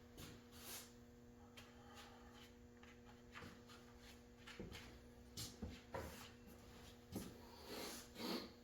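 Near silence: faint rustling and a few light clicks and knocks of things being handled, over a steady low hum.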